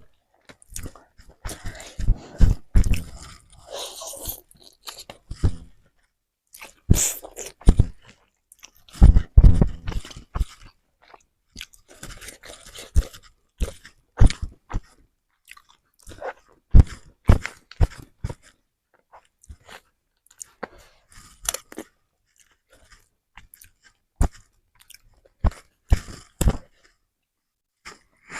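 Close-up eating sounds: wet chewing and lip smacking of fried instant noodles and rice, in irregular bursts with short pauses between mouthfuls.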